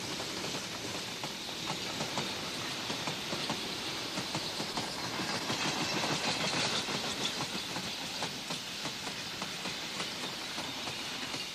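A Turkish diesel locomotive hauling a heavy, overloaded train passes close by. The engine and wheels make a steady rumble, with rapid clicking of the wheels over the rails, growing a little louder about halfway through.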